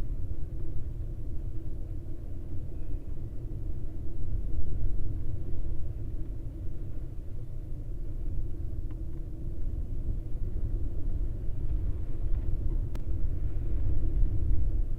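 Steady low rumble on the outdoor camera microphone, with a faint click about nine seconds in and another near thirteen seconds.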